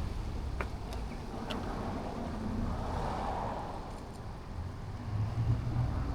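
Motorcycle riding noise from inside the rider's helmet: the low rumble of a BMW R1250GS boxer-twin engine under wind noise, growing louder about five seconds in.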